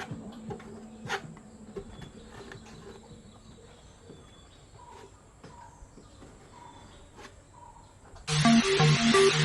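Quiet background with scattered sharp clicks, a faint steady high whine and faint short chirps repeating about every 0.7 s. Loud electronic dance music starts suddenly near the end.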